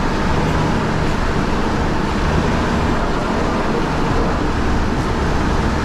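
Off-road vehicle's engine running steadily under a constant rushing noise, with no distinct knocks or revs.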